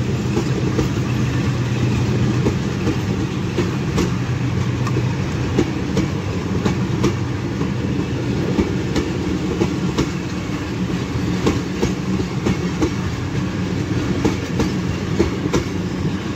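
Passenger coaches of a departing express train rolling past close by: a steady rumble, with repeated sharp clicks of the wheels passing over rail joints.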